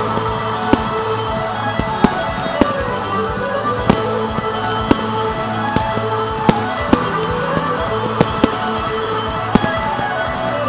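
Fireworks going off over loud sustained music, about a dozen sharp bangs at irregular intervals.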